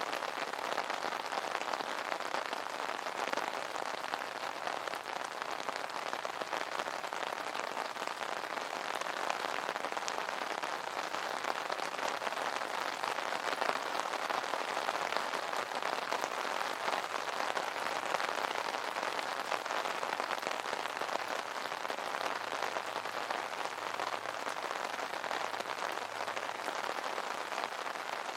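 Steady, dense rain pattering on an umbrella's fabric canopy.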